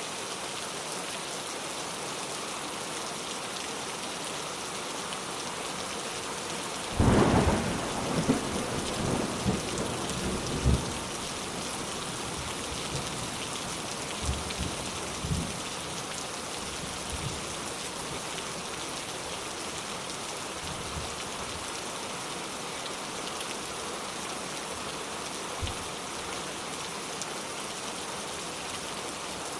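Steady rain falling, with a sudden clap of thunder about seven seconds in that rumbles on for some four seconds, then a few weaker rumbles and one faint one near the end.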